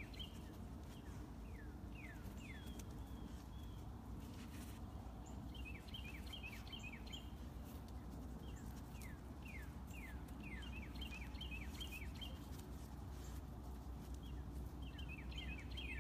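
A songbird singing in repeated quick runs of short, falling chirps, several bouts in a row, over a steady low background rumble.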